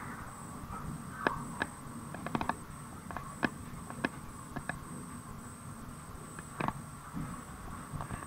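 A train moving slowly out of a station, heard from inside the carriage: a low rumble with irregular sharp clicks and clunks as the wheels pass over rail joints and points, plus a faint steady high whine.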